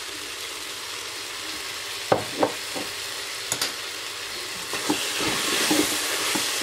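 Sliced peppers and other vegetables sizzling as they fry in an electric multicooker's non-stick bowl. From about two seconds in, utensils knock and scrape against the bowl as the mixture is stirred with a wooden spatula, and the sizzle grows louder during the stirring near the end.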